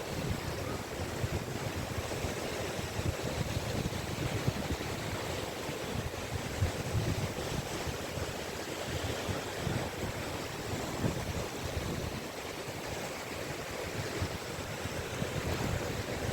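Caspian Sea waves washing onto a beach in a steady surf, with wind rumbling on the microphone in uneven gusts.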